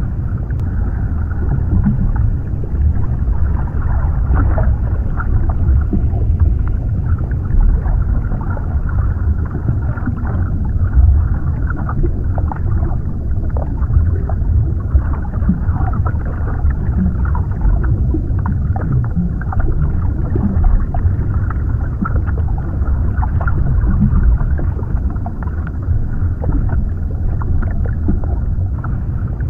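Underwater ambience: a steady deep rumble of water with faint scattered crackles and bubbling, muffled with almost no high end.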